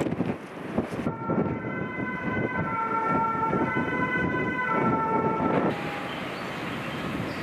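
Strong wind buffeting the microphone. From about a second in until near six seconds a held, multi-note tone sounds over it, shifting pitch in a few steps before it cuts off.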